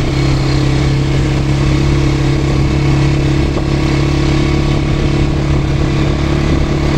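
Quad bike (ATV) engine running steadily under way, at an even pitch.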